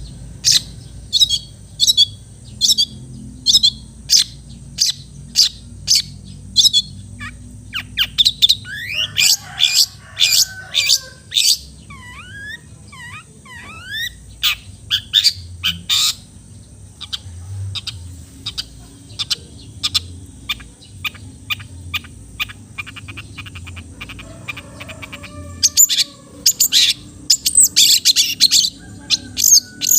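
Long-tailed shrike (cendet) singing: sharp, high calls repeated about every 0.7 s, then faster runs of calls with a few short gliding whistles, and a dense burst of calls near the end.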